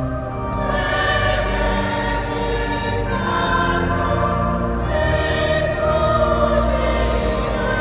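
Choir singing sustained chords of a sacred piece, the harmony shifting a few times.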